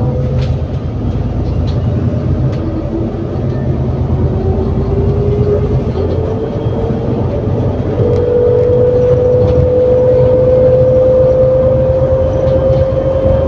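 Onboard sound of an ADL Enviro400 City double-decker bus with a Voith automatic gearbox pulling away under power: a low engine rumble with a whine that slowly rises in pitch, stepping up and getting louder about eight seconds in.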